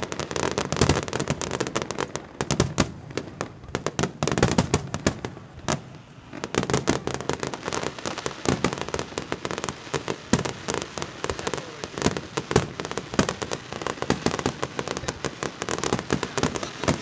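Aerial firework shells bursting in quick succession, a dense barrage of bangs and pops. It thins briefly about six seconds in, then the barrage resumes.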